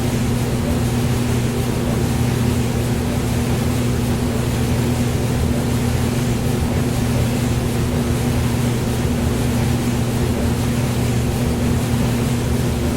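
Hair dryer running steadily: an even rush of blown air with a constant low motor hum underneath.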